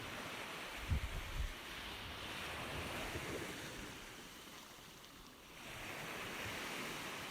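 Ocean surf: a wave rushes in and swells, fades away about five seconds in, then builds again. A brief low thump about a second in.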